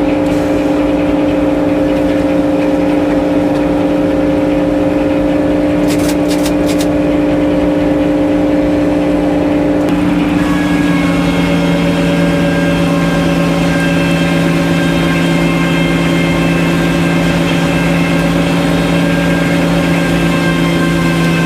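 Circular sawmill running: a steady engine-driven hum that drops to a lower pitch about ten seconds in and holds there, with a few light clicks just before.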